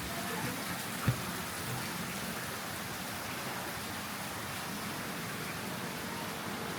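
Steady hiss of running water, with one sharp knock about a second in.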